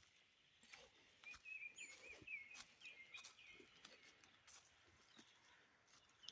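Faint birdsong: a quick run of short, wavering chirps in the first half, with a few scattered faint clicks.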